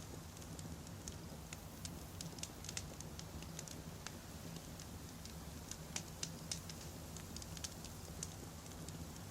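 Wood campfire crackling: irregular sharp pops and snaps, several a second, over a steady low rumble of burning logs.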